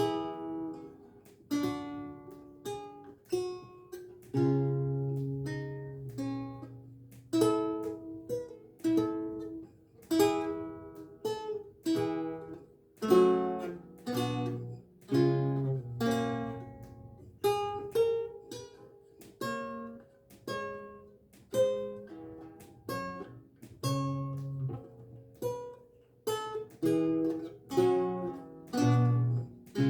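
Renaissance lute being played: a slow piece of plucked notes and chords, each ringing and dying away, with low bass notes sounding under the melody.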